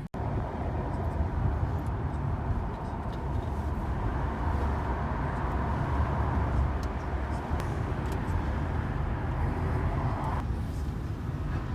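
Steady low rumble of a moving vehicle, with a droning tone over it that cuts off suddenly near the end.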